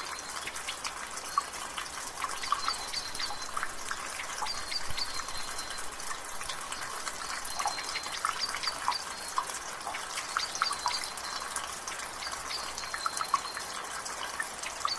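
Rainwater dripping and trickling from a gutter over the hiss of light rain, with many small drips. A songbird in the background repeats a short phrase of quick high notes ending in a brief held note, every few seconds.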